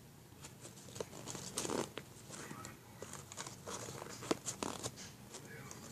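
A sheet of paper being handled and folded: irregular rustling and crinkling with a few sharp crackles as it is creased and pulled.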